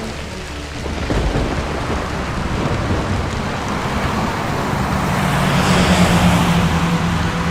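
Storm sound effects: steady rain with a low rumble of thunder that swells about five to seven seconds in.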